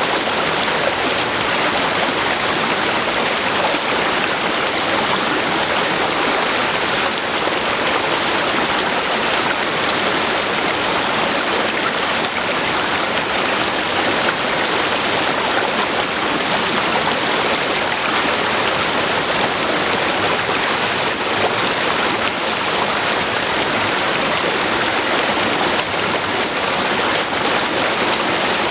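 A river flowing: steady rushing and gurgling of water over rocks, even throughout.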